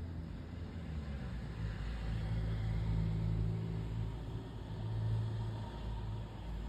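Low, steady engine-like hum with a fixed pitch, swelling about two seconds in and easing off near the end.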